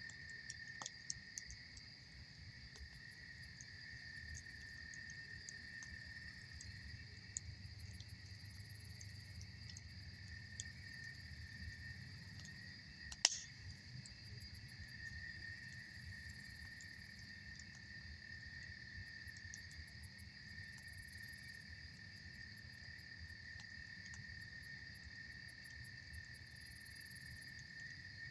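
Campfire crackling, with scattered small clicks and one sharp pop about thirteen seconds in, over a steady high chirping of insects such as crickets.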